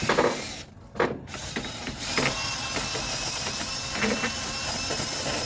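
Drill spinning a small wire-wheel brush against metal, cleaning it up. There are two sharp knocks in the first second, then a steady run.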